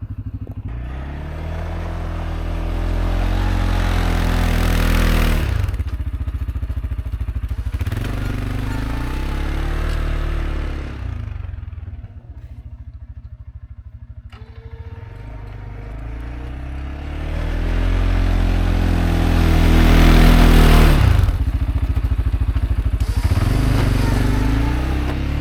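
CFMoto CForce 520L ATV's single-cylinder engine revving up and easing off again and again while plowing snow, with a loud hiss of snow and tyres during two hard pushes, a few seconds in and again past the middle. Between them it drops to a near-idle for a couple of seconds.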